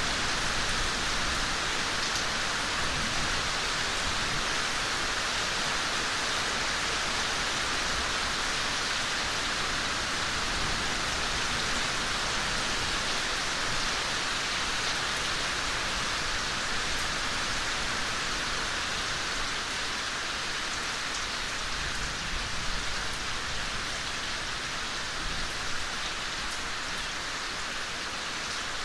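Steady gentle rain falling in a forest, an even hiss with scattered drops pattering on surfaces.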